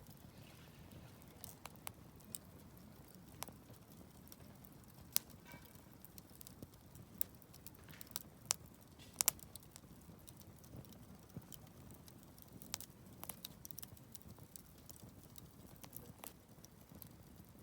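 Wood campfire crackling: irregular sharp pops and snaps over a faint low rumble, with a few louder pops about five and nine seconds in.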